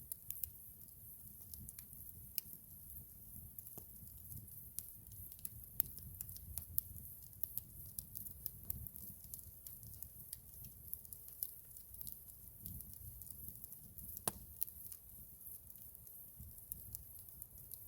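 Campfire crackling: irregular sharp pops and snaps of burning wood over a low steady rumble, with one louder pop about three-quarters of the way through.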